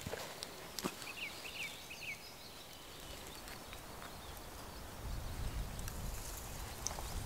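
Outdoor woodland ambience: a small bird chirps a few short phrases about a second in, with a couple of light knocks near the start. A low rumble comes in about five seconds in.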